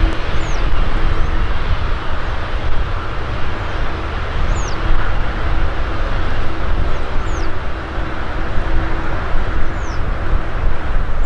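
Jet airliner engines running with a loud, steady roar, heaviest in the low end. A faint steady hum sits underneath, and short high falling chirps come every two to three seconds.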